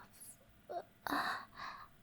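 A woman's breathy vocal sounds: a brief soft whimper under a second in, then an audible airy exhale, like a sigh or gasp.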